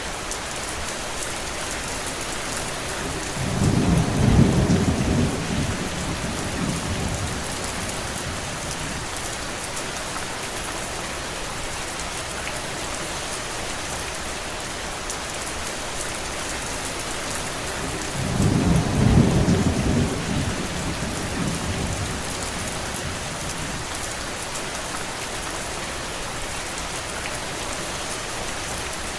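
Steady heavy rain hissing on surfaces, with two low rumbles of distant thunder, each about three seconds long, the first a few seconds in and the second about fifteen seconds later.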